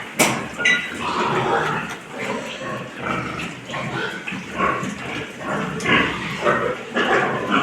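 Pigs on a farm grunting and squealing, many calls overlapping without a break.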